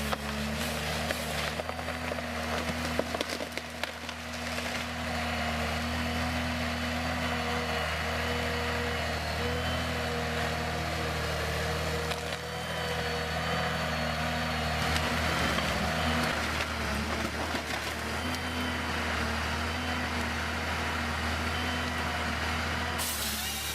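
A heavy machine's engine running steadily, with a few sharp cracks and knocks of wood in the first few seconds.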